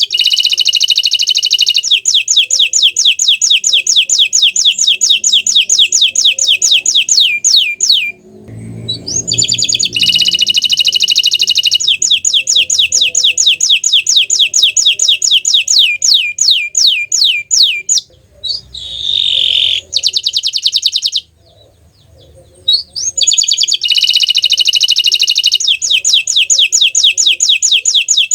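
Bottle-green domestic canary singing long, rapid trills of repeated sweeping notes, each running for several seconds, with a few short pauses between phrases.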